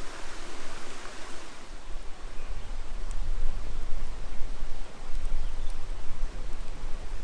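Newly lit campfire burning, with a few sharp crackles over a steady rushing hiss. Wind rumbles on the microphone from about a second and a half in.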